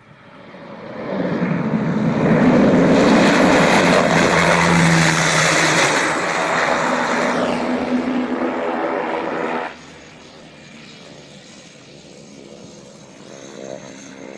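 Aircraft engine noise rising to loud over the first two seconds and holding with a low steady tone in it, then cutting off abruptly about ten seconds in. A much fainter engine hum follows.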